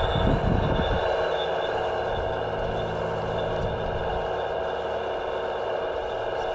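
Steady whine of the electric motors and hydraulic pumps of radio-controlled scale construction machines, several pitches held at once. Low rumbling bumps come through in the first second.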